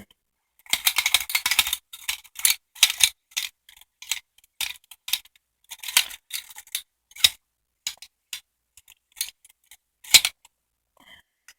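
Metal finger blades of a replica Freddy Krueger glove clicking and clinking together: a quick flurry of clicks near the start, then single sharp clicks a few a second, stopping shortly before the end.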